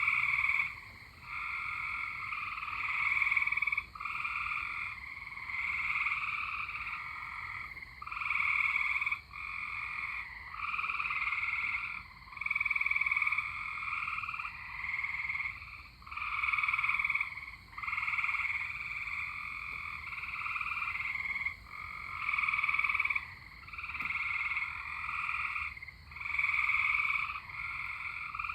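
Chorus of tree frogs calling in synchrony: trilled calls about a second long follow one another with short gaps throughout.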